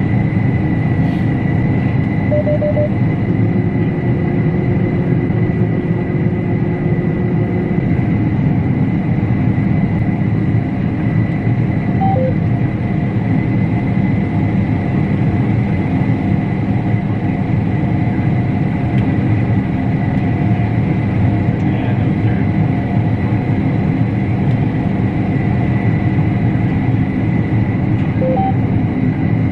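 Combine harvester running steadily while cutting wheat: a loud, even low drone with a thin steady whine above it. Short beeps sound three times, early on, near the middle and near the end.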